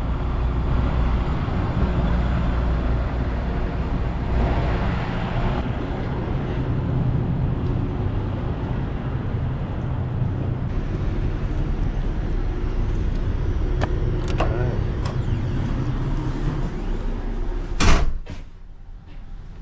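Semi truck's diesel engine running steadily at idle, with a few light clicks. Near the end there is one loud door slam, after which the engine rumble drops away.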